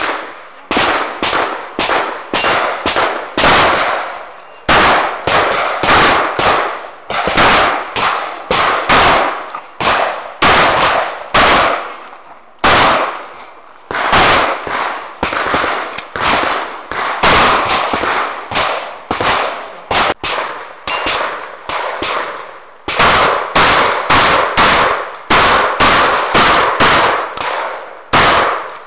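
Shotgun fired in fast strings of several shots a second, each shot ringing out with an echo, with short breaks between strings.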